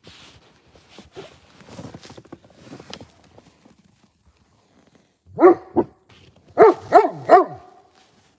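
A dog barks five times in two quick bursts, two barks then three, each bark dropping in pitch. Before the barks come soft crunching noises in the first three seconds.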